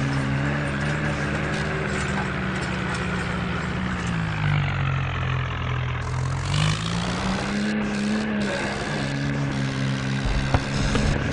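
Swaraj tractor's diesel engine running steadily; its pitch drops about four seconds in as the revs fall, then climbs back up a couple of seconds later.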